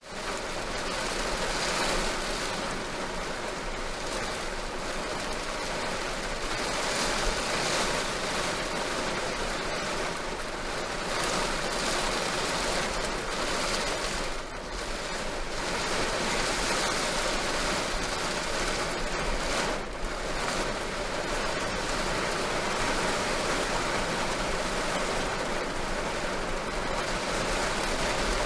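Heavy rain drumming on a car's roof, a dense steady patter that swells and eases slightly.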